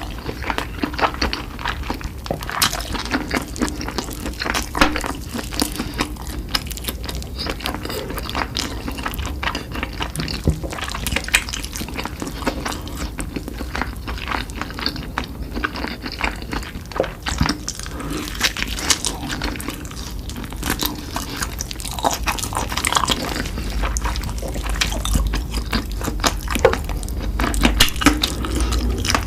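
Close-miked eating: steady chewing with many crisp, wet mouth clicks and smacks.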